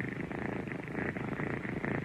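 A domestic cat purring steadily, a rapid, even pulsing rumble.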